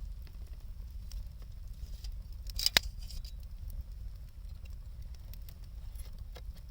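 Wood campfire crackling with scattered small snaps and one sharp, loud pop just under three seconds in, over a low steady rumble.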